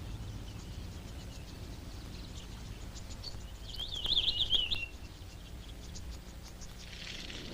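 A bird calls once, about four seconds in: a warbling phrase about a second long, over faint scattered ticks and a steady low hum of wild ambience. A hiss spreads in near the end.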